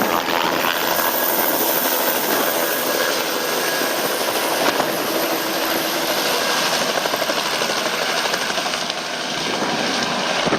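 Helicopter flying away, a steady loud rushing engine and rotor noise.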